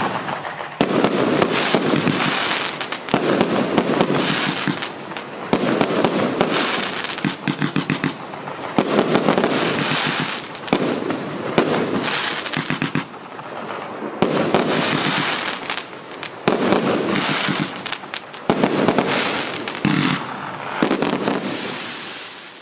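A 155-shot fireworks cake with mixed 0.8-, 1- and 1.2-inch tubes firing a continuous barrage of rapid shots and bursts, coming in waves about every two seconds and dying away near the end as the cake finishes.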